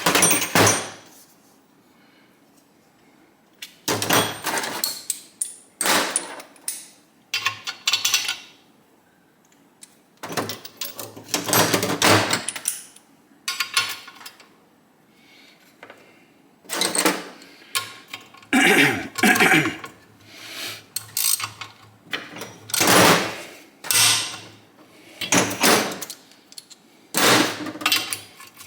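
Repeated short bursts of metal-on-metal tool noise and rattling as a bolt is worked out of a Kawasaki KZ1000 engine case, each burst lasting about a second with brief pauses between.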